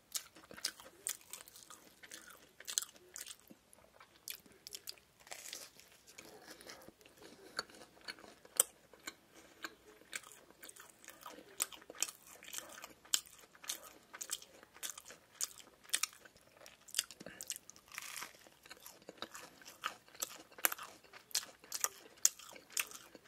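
A person chewing and biting a fried Lotteria shrimp burger close to the microphone: irregular crisp crunches and wet mouth clicks, one after another.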